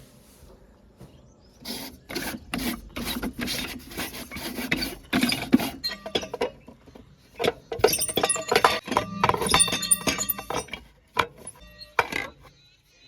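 Stones clattering and clinking as they are tipped into a steel tractor trolley. There are two long runs of rapid hard impacts with some metallic ringing, then a few single knocks near the end.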